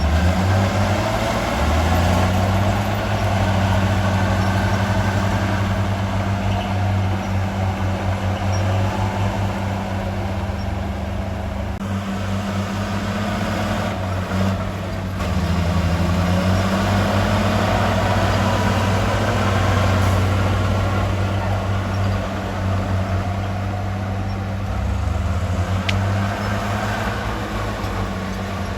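Heavy diesel engine of earthmoving machinery running steadily, its engine speed rising and falling a few times.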